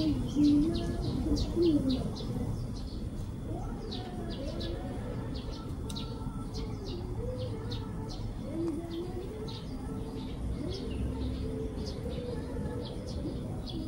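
Small birds chirping, short high calls repeated on and off, over a low steady background rumble.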